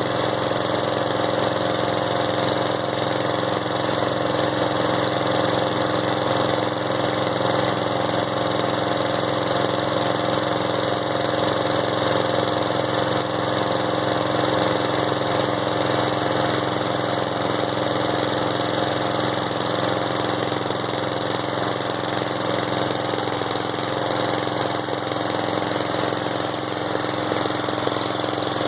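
Riding lawnmower engine running steadily at an even speed, on the last of its fuel.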